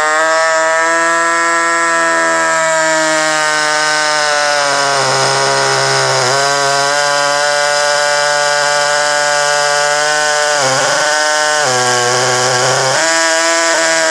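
Power tool cutting a hole through a motorcycle saddlebag, running loud and steady with its pitch sagging several times as the cutter bogs under load.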